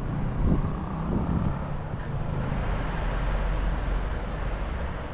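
Street traffic noise with wind rumbling on the microphone, a vehicle passing early on.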